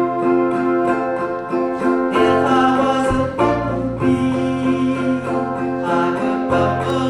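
A live folk band playing with plucked acoustic guitar and bass under held chords, the bass changing notes a few times.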